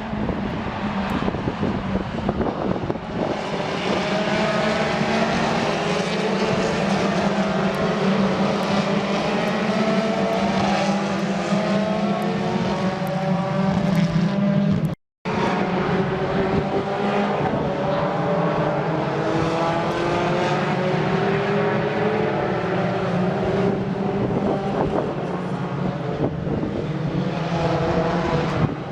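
Racing car engines running hard on track, several at once, their pitch climbing as they accelerate past. The sound cuts out for a moment about halfway, where two clips are joined, then more cars follow with the same rising engine note.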